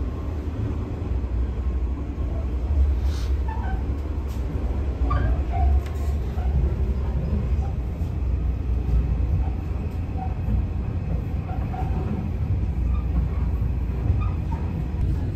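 Passenger train running, heard from inside its observation lounge: a steady low rumble of the moving train on the rails.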